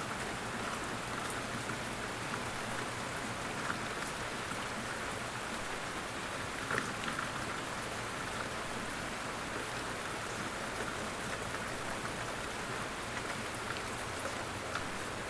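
Steady rain falling on a surface, with a few louder individual drops now and then.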